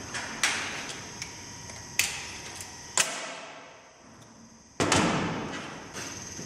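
Sharp knocks and clatters of tools and injector parts being handled at a workbench: four loud strikes that ring briefly, with a few lighter taps between them, over a steady high-pitched whine.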